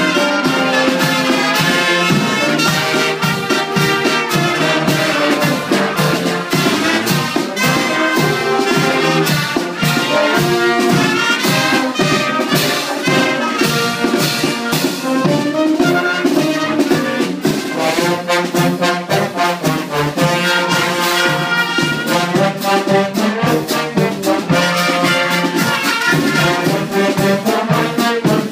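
Brass band music: trumpets and trombones playing a tune together over a steady, rapid beat.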